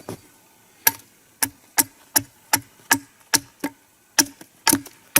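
Axe chopping a small wooden stake to a point: a quick run of sharp, even strikes, about three a second, starting about a second in.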